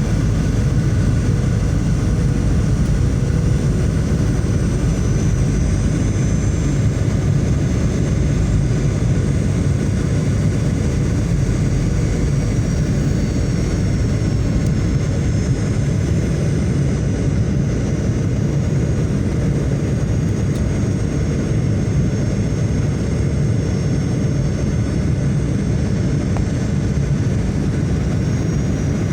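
Airliner cabin noise in flight: a steady, unbroken low rumble of engines and rushing air heard from inside the plane.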